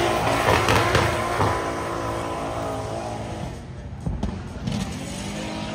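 Drift car's engine revving hard as the car slides away, the revs rising and falling, then fading out about three and a half seconds in. A few low thumps come near the end.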